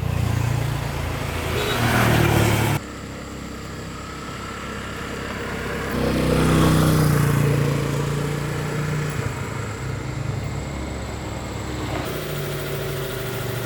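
An engine running, in several pieces cut together; the sound changes abruptly about three seconds in and again near the end.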